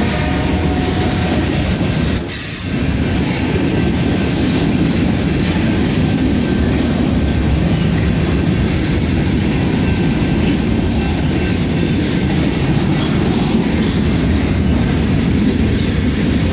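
Freight train's covered hopper and tank cars rolling past close by: a steady, heavy rumble of steel wheels on rail, with a faint wheel squeal.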